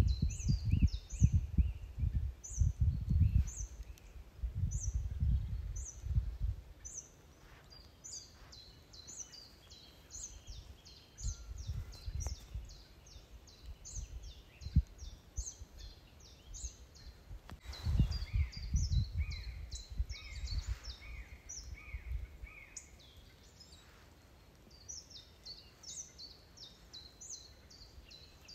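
Songbirds chirping steadily, with short high notes about two a second throughout. Gusts of wind rumble on the microphone, heaviest in the first six seconds and again about eighteen seconds in.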